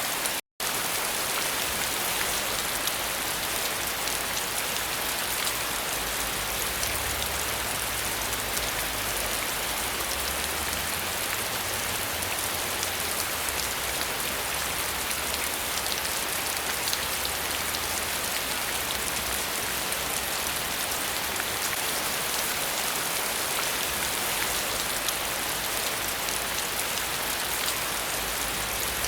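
Steady, heavy rain falling, an even dense hiss of drops on surfaces, with a momentary cut-out to silence about half a second in.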